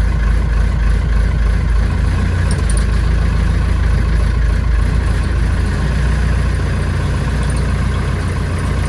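Massey Ferguson backhoe loader's diesel engine running steadily with a low, even drone.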